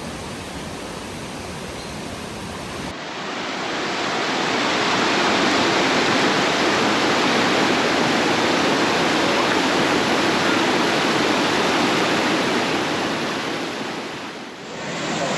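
Steady rush of falling water from a waterfall. About three seconds in it changes abruptly to a louder, fuller rush, and it dips briefly just before the end.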